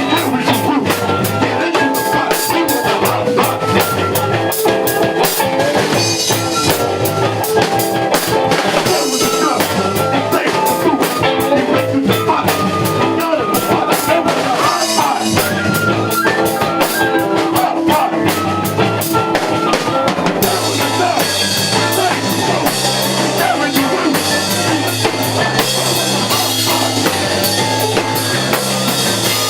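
Live band playing amplified rock music, with a drum kit keeping a steady beat under the instruments. About two-thirds of the way through, the cymbals thicken into a denser wash.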